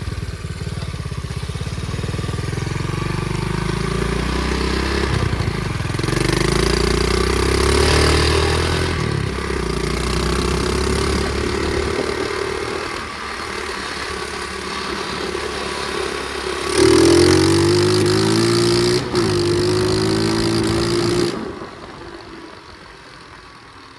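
Flywing pit bike engine being ridden, its pitch climbing and falling with the throttle several times, loudest with a quick rising rev about two-thirds of the way through. Near the end the engine note drops off suddenly to a much quieter low running sound.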